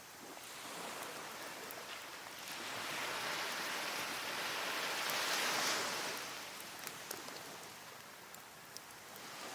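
A wave washes up the beach, its hiss swelling to a peak midway and then receding, with a wood fire giving off a few sharp crackles.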